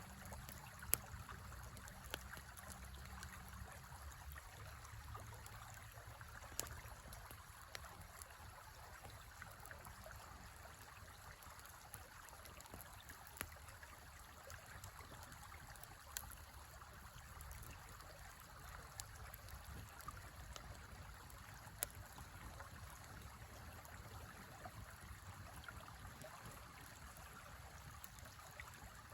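A river flowing steadily, with single sharp pops from a campfire every few seconds.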